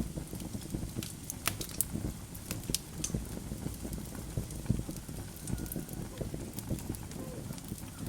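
Log fire in a fireplace crackling, with irregular sharp pops over a low, steady rumble of the flames.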